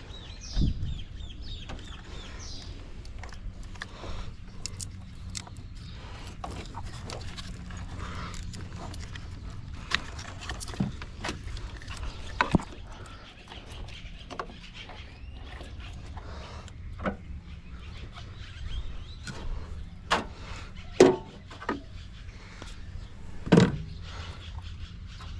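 Irregular clicks, clacks and knocks of hands and tools working on a pickup truck's wiring harness and plug connectors, with a few sharper knocks, the loudest near the end.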